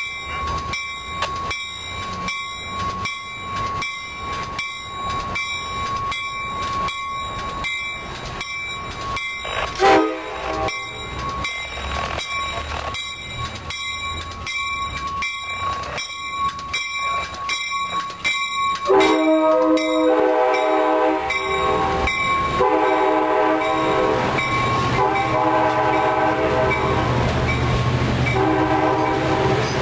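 Amtrak passenger train departing a station: its bell rings in steady, evenly spaced strikes, with a short horn toot about ten seconds in. From about two-thirds of the way in the bell stops and the horn sounds in several long blasts as the train passes, over a growing low rumble of wheels.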